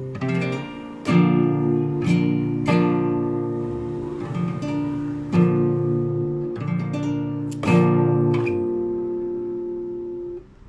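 Classical guitar played solo in free improvisation: a series of plucked chords, each left to ring and die away, the last one fading out near the end.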